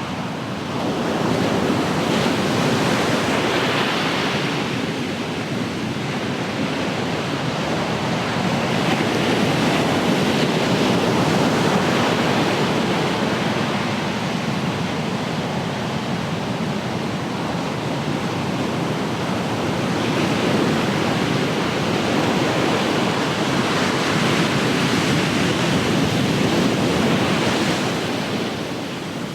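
Ocean surf breaking and washing on the shore, a steady rush of noise that swells and eases over several seconds as the waves come in.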